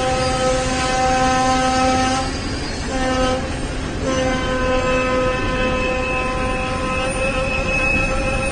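Train horn sounding over the rumble of a moving train: a long blast, a short one about three seconds in, then another long blast held until the sound cuts off.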